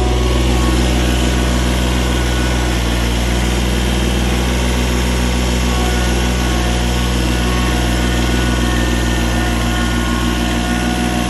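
Kubota B7100's three-cylinder diesel engine idling steadily as it warms up after a cold start.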